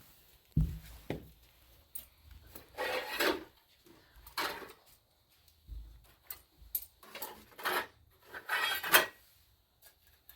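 Intermittent rubbing and scraping strokes, each about half a second to a second long, with a few light knocks of household items being handled.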